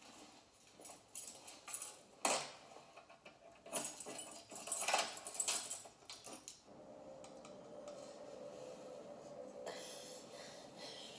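Dishes and cutlery clattering in a series of sharp clinks and rattles, then, about halfway through, a steady held tone.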